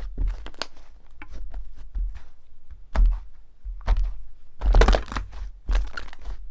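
Slime being squeezed and pressed by hand: a steady patter of small crackles and pops, with louder crunchy squishes about three seconds in and again near five seconds.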